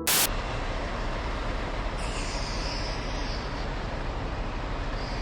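Semi truck running, a steady low engine rumble with road or idle noise, opening with a brief loud crackle and with a hiss rising in about two seconds in.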